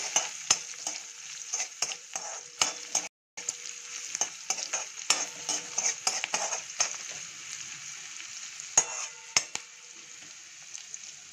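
A tempering of garlic, green chillies and curry leaves sizzling in hot oil in a metal kadhai while a spoon stirs it, with frequent clicks and scrapes of the spoon against the pan. The sound breaks off briefly about three seconds in.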